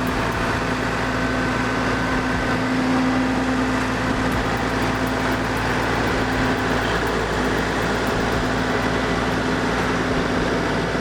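Heavy vehicle engine running steadily: a constant drone with a low hum that holds one pitch throughout.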